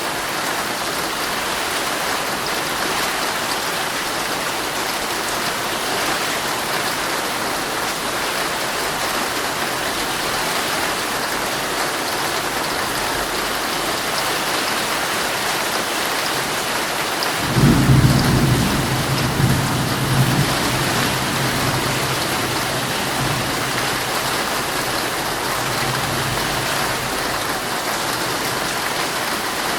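Heavy rain drumming steadily on a tent, with a clap of thunder breaking out about two-thirds of the way through and rumbling on for several seconds as it fades.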